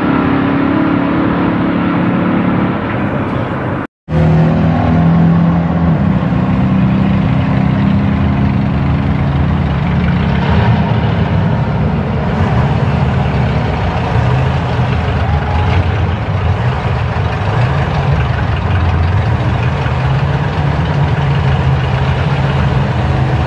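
Muscle car engine running loud and steady with a deep exhaust note. It cuts out abruptly for an instant about four seconds in, then runs on.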